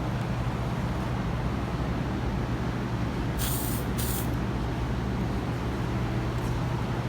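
Two short hissing bursts from an aerosol spray-paint can, one after the other about three and a half seconds in, over a steady low hum.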